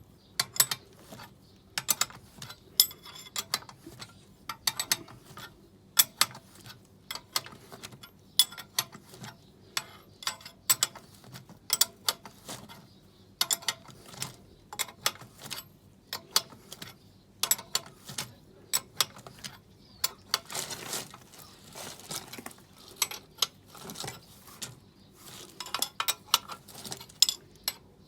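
Hand ratchet clicking in short runs, with metal tools clinking, as coil spring compressors are wound onto a car's front strut spring.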